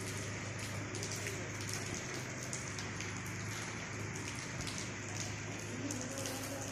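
Steady rain falling, with many small drop ticks over an even hiss and a faint steady low hum underneath.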